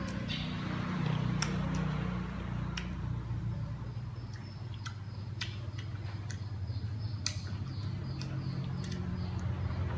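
Crisp, irregular crunching of a green June plum (ambarella) being chewed, heard as scattered sharp clicks over a steady low hum.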